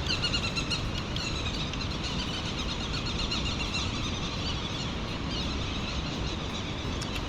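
Wild birds calling in runs of short, high chirping notes over a steady low background rush.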